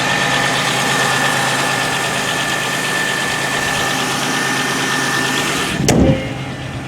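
Chevrolet 3100 V6 of a 1995 Monte Carlo idling steadily on a cold morning start, heard close with the hood open, with a steady high whine over it. About six seconds in, a single loud thud, after which the engine sounds quieter and more muffled; this fits the hood being slammed shut.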